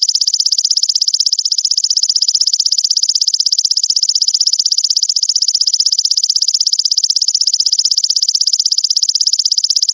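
Grasshopper (belalang) stridulating: a continuous, rapidly pulsing high-pitched buzz.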